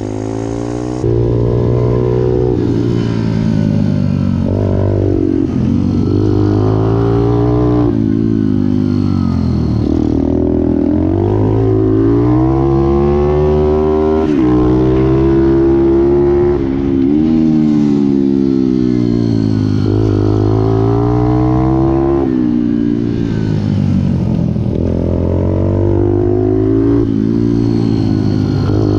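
Pit bike engine revving hard, its pitch climbing and dropping over and over as the bike accelerates and slows. It gets louder about a second in.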